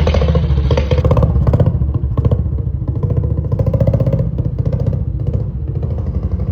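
Vintage BSA motorcycle engine running with steady, even exhaust pulses. It is a little harder and brighter for about the first second, then settles to an even running note.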